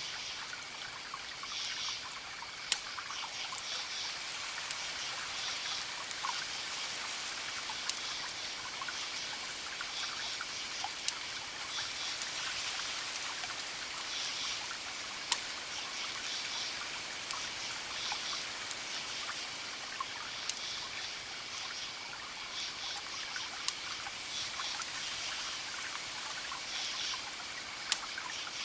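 Campfire crackling over a steady hiss, with a few sharp pops, while crickets chirp in repeated pulses over a constant high trill.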